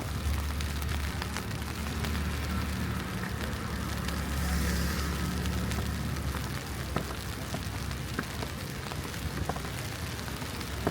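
A vehicle passing on the street: a low engine rumble that swells to its loudest about four to five seconds in and fades away a couple of seconds later, over steady city background noise.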